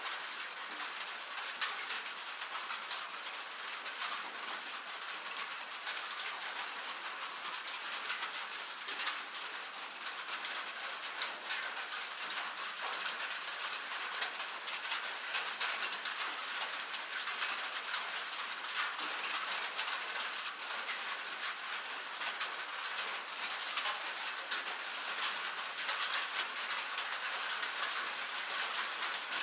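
Rain falling on a metal roof: a steady, dense patter of countless small drop ticks, high and bright with no low rumble.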